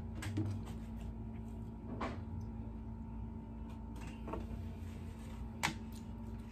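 A few faint, scattered clicks and taps of chopsticks against a plastic sushi tray, over a steady low hum.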